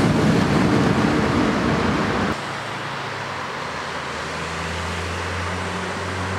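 Rumble and rail noise of a train running past, cut off abruptly about two seconds in. Then a quieter, steady low hum from a TGV high-speed train approaching, growing slightly louder toward the end.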